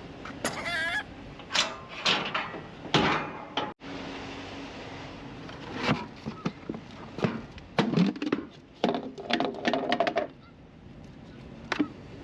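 Geese honking, many short calls coming in bursts, some overlapping, busiest from about six to ten seconds in.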